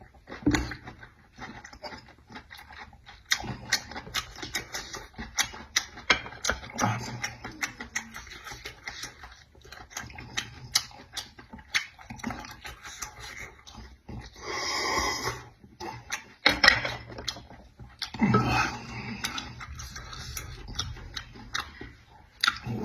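Close-miked eating sounds of a person chewing with the mouth open: a steady run of sharp clicks, lip smacks and crunches, with a louder breathy burst about fifteen seconds in.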